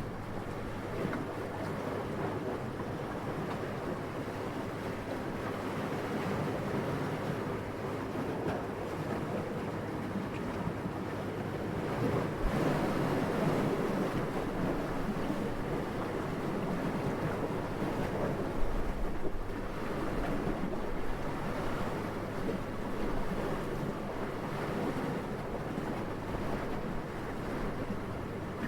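Steady rushing wind, swelling about twelve seconds in, with a brief low buffet a little later.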